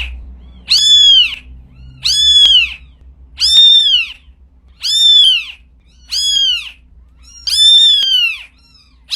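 A cat meowing over and over, about seven high meows at an even pace of one every second and a half, each rising then falling in pitch.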